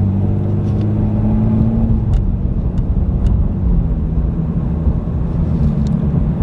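Car running down the road, heard from inside the cabin: a steady engine hum for about the first two seconds, then a low road rumble with a few faint ticks.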